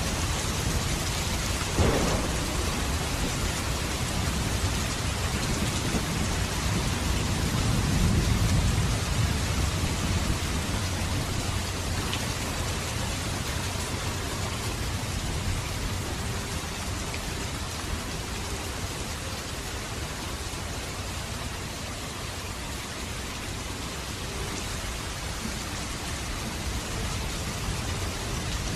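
Steady rain falling, with a low rumble that swells about eight seconds in and then eases off.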